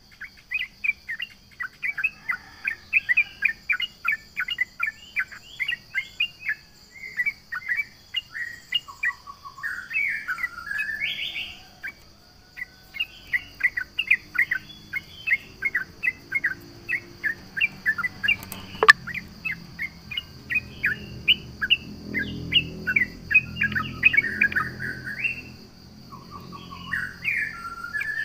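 Yellow-vented bulbul (trucuk) singing a fast chattering song: runs of sharp, several-a-second notes with short rising and falling phrases, pausing briefly about twelve seconds in and near the end. A steady high insect-like whine runs underneath.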